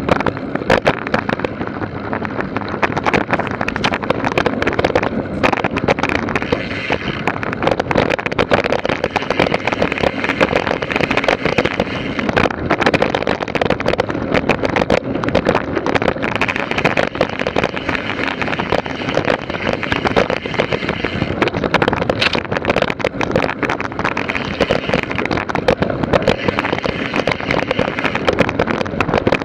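Steady wind buffeting the microphone, with a constant rattle of small knocks and clicks, like a camera moving fast over rough ground.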